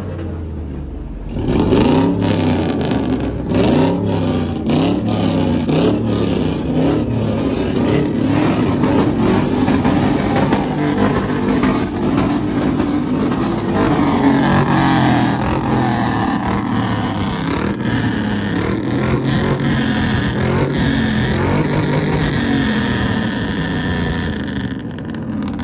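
Vehicle engine revved up and down over and over, loud, starting about a second and a half in.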